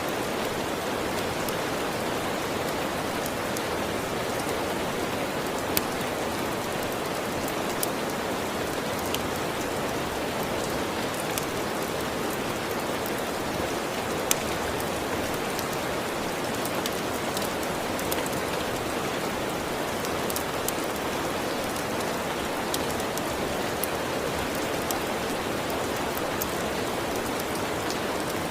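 Steady, even rain, with occasional sharp clicks scattered through it.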